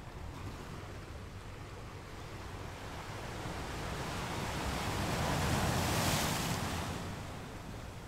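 Ocean surf: a wave's rush of foam builds, is loudest about six seconds in, then fades as it washes out.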